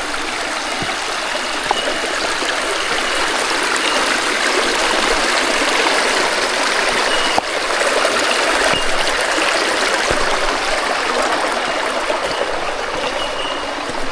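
Shallow creek flowing steadily, a continuous trickling of water.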